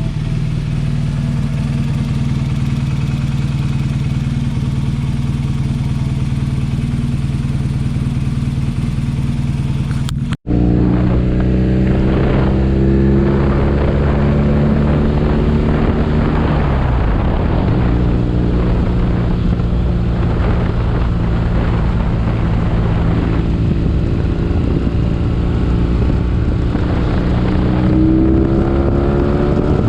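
BMW R nineT's boxer twin engine running, steady for about the first ten seconds; after a sudden cut, the engine's pitch rises and falls repeatedly as it is revved or ridden through the gears.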